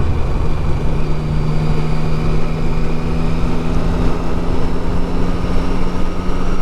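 Triumph Street Triple 675's three-cylinder engine running at a steady cruise, its note creeping slightly higher, with a loud exhaust. Wind rushes over the microphone throughout.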